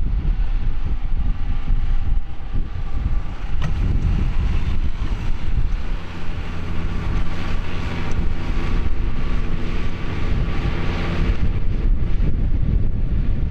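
John Deere 6150R tractor's six-cylinder diesel engine running steadily under load, pulling a plough, with wind buffeting the microphone. The engine note grows clearer about halfway through.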